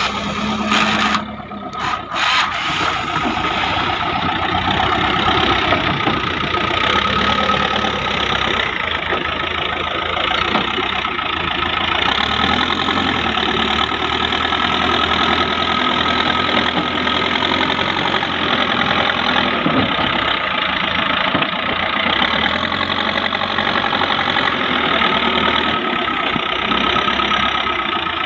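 Heavy diesel machinery engine running steadily, with a couple of abrupt breaks about a second in.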